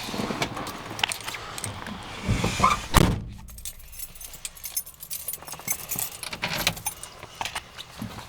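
Car keys jangling and rattling with handling clicks, and a heavy thump about three seconds in. After it the sound drops quieter, leaving small clicks and key rattles. No engine is running yet.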